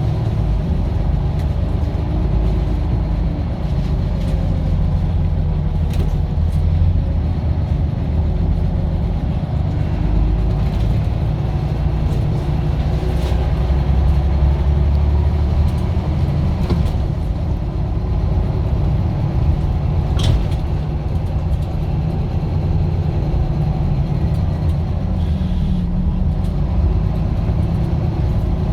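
Scania diesel bus engine running steadily under way, a heavy low drone throughout, with a few sharp clicks or rattles now and then.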